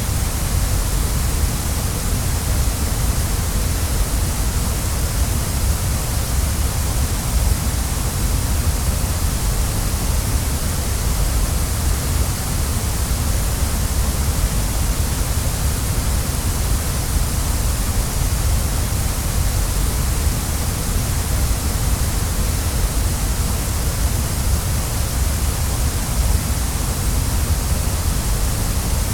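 Waterfall: a steady, unbroken rush of falling water, deep and hissy at once, with no change in level.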